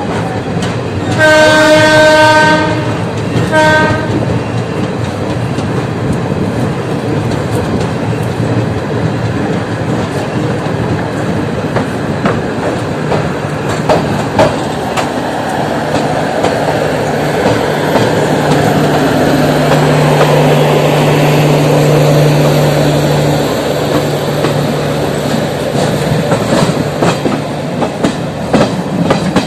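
Indian Railways passenger train hauled by a WAP-7 electric locomotive, departing and heard from a coach: a long horn blast about a second in, then a short one. After that, the steady rumble of the moving coaches with wheel clacks over rail joints and points, which come thicker near the end.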